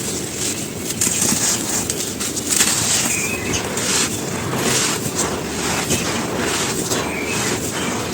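Dry charcoal and ash being crumbled, a continuous dense run of crunching and crackling.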